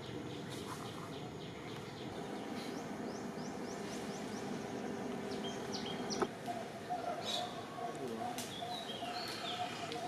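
Small birds chirping in quick repeated strokes over a steady background noise, with a single sharp click about six seconds in.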